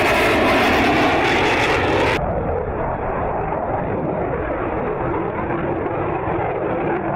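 Fighter jet engine roar. About two seconds in it cuts abruptly to a duller, more muffled recording of jet noise.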